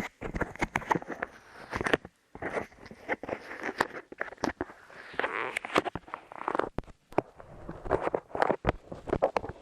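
Light clay squeezed and pressed against a microphone's ears, giving close, sticky crackling and clicking, with brief breaks about two seconds in and again about seven seconds in.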